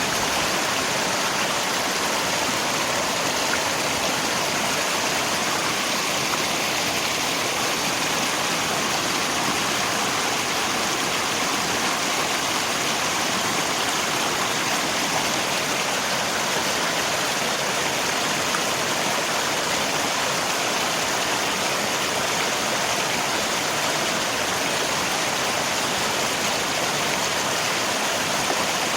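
Rain falling together with a rushing river, a steady even hiss of water with no change throughout.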